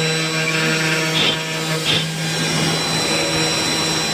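3018 desktop CNC router running, its spindle motor giving a steady whine with a low hum, while the bit carves wood, with brief scraping about one and two seconds in.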